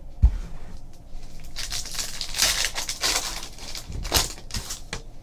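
Trading-card pack wrapper crinkling as it is torn open and the cards handled, in irregular rustling bursts, with a short low thump just after the start.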